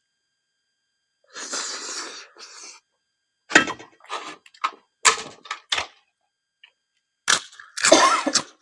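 Close-miked eating sounds: crunching and chewing of food in a series of short, crackly bursts, the loudest near the end.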